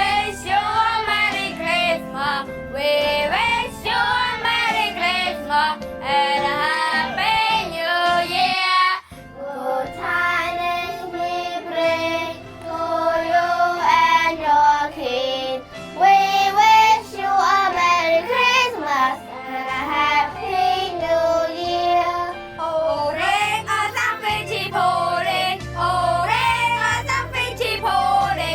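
Children singing a song over instrumental backing music, with a short break about a third of the way through.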